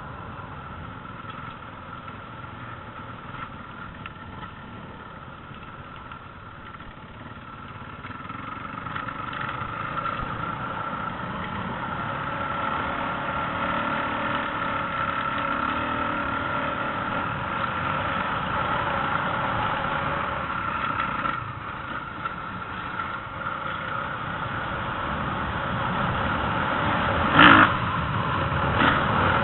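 Motocross bike engines running, growing louder about a third of the way in, with a brief loud blast near the end.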